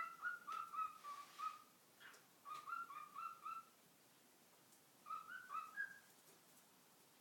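Pet parrot whistling in three short runs of quick, clear notes, the last run rising slightly in pitch at its end.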